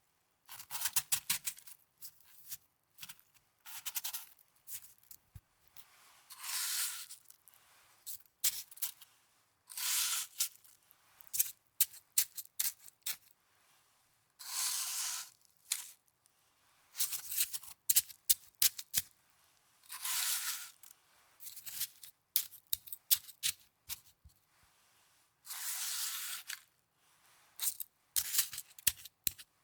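Snow handled close to the microphone: clusters of crisp crackling and crunching alternate with smooth, rushing sweeps about a second long, recurring every few seconds.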